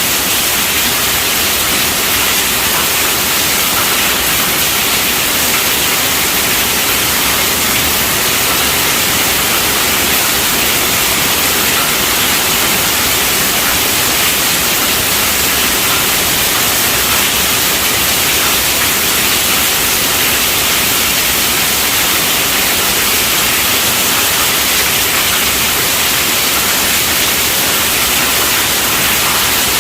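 Heavy rain falling on a tent roof: a steady, dense hiss with no thunder.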